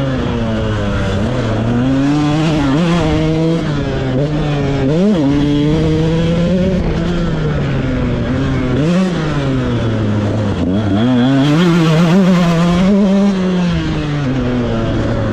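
KTM SX 125 motocross bike's two-stroke single-cylinder engine being ridden hard, its pitch climbing and dropping over and over as the throttle is worked and gears change.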